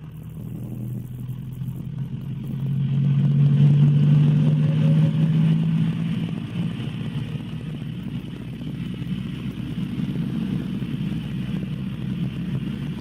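Cabri G2 helicopter's piston engine and rotor running up after start as the engine is brought to 2000 RPM: a steady low drone that swells a few seconds in with a faint rising whine, then settles.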